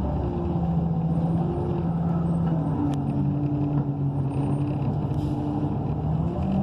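Transit bus's Cummins Westport ISL G natural-gas engine running steadily, heard from inside the cabin, its drone shifting a little in pitch. A single sharp click about three seconds in.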